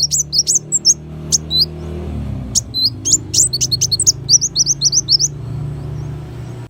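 Kolibri wulung sunbird singing: rapid runs of high, thin chirps, with a fast burst at the start and another from about two and a half seconds to five seconds, over a steady low hum.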